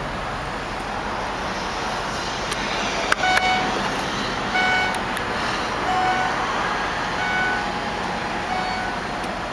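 Steady vehicle and outdoor noise, with about half a dozen short high beeps spread through the middle and a couple of sharp clicks shortly before them.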